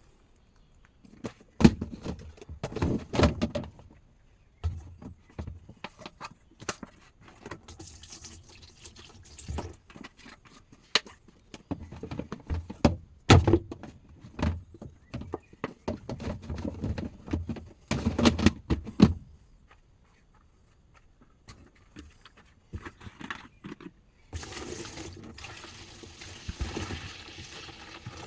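Things being handled: a run of sharp knocks and clatter with rustling, then a steady hissing noise, much like running or pouring water, for the last few seconds.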